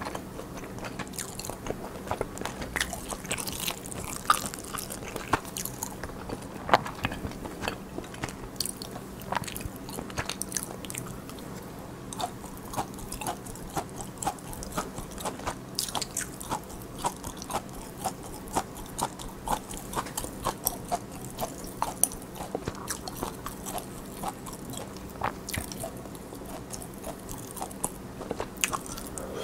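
Close-miked chewing of a mouthful of spicy pollock-roe soup: irregular wet mouth clicks and smacks, several a second, with the odd sharper bite. A faint steady hum sits underneath.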